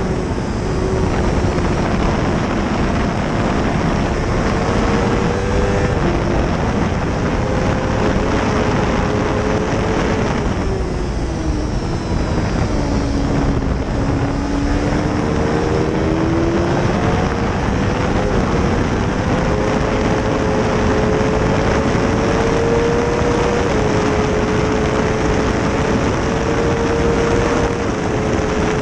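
2005 Honda CBR600RR's 600 cc inline-four engine running hard on a hillclimb run, with wind rushing over the microphone. The engine note shifts in steps, drops low about twelve seconds in as the bike slows, then climbs back up.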